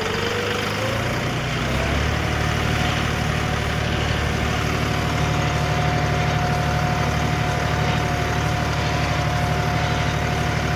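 John Deere tractor's diesel engine revving up over the first couple of seconds as the tractor is driven off, then running at a steady speed.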